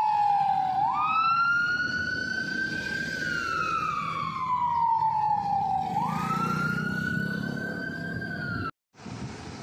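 Emergency vehicle siren wailing, each cycle rising quickly and then falling slowly over about five seconds, over the low rumble of a truck engine. It cuts off suddenly near the end.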